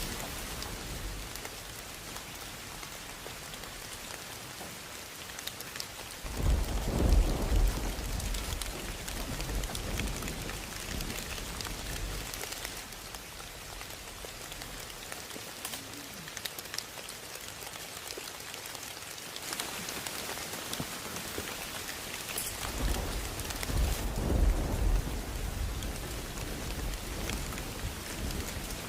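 Heavy rain falling steadily, with two deep rolls of thunder, one about six seconds in and one a little over twenty seconds in.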